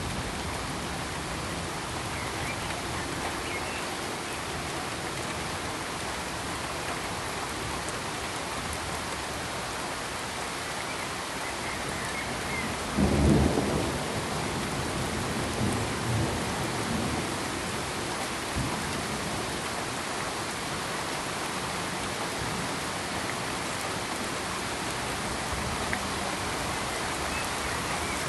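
Steady pink noise, an even hiss, with a brief low rumble about halfway through and a few fainter low thuds over the next few seconds.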